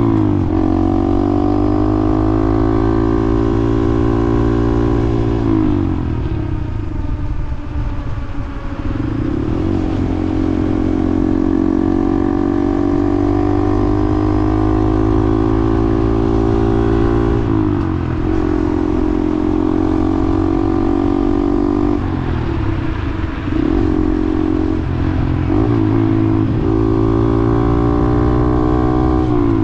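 Motorcycle engine running under way, holding a steady note for long stretches and dropping and climbing in pitch several times as it slows and speeds up again.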